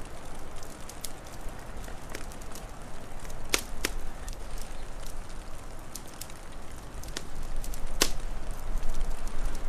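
Wood fire crackling: sharp pops and snaps scattered over a steady hiss, with the strongest snaps a pair about three and a half seconds in and one about eight seconds in. A low rumble of wind rises near the end.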